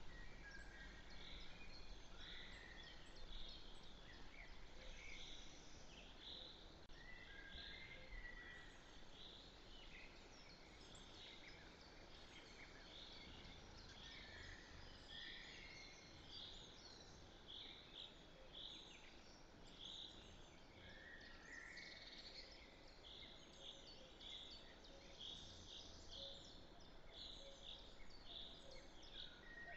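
Faint birdsong: a steady stream of short, high, repeated notes from several birds, with a few lower gliding phrases now and then.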